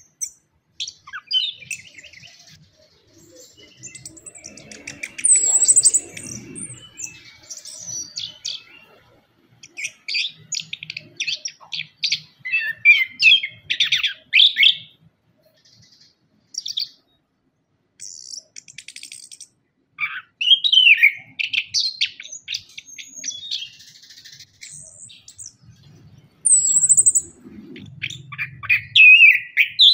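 Orange-headed thrush singing: varied phrases of high whistled and gliding notes mixed with fast stuttering trills, broken by pauses of a few seconds.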